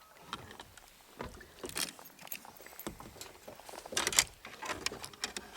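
Water splashing, with irregular clicks and knocks on a kayak, while a hooked black bass is played to the boat; the loudest splash comes about four seconds in.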